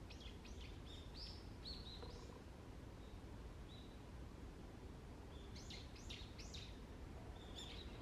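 Wild birds giving short, high chirps in two quick runs, one near the start and another in the second half. The chirps are faint over a steady low rumble.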